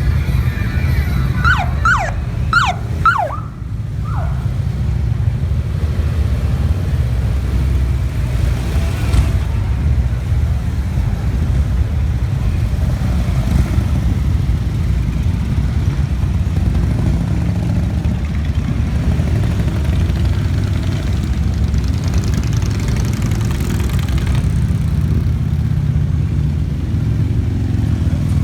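Motorcycle engines running together in a steady low rumble as a parade of bikes rides past. About a second in, a siren gives a quick run of about five falling whoops.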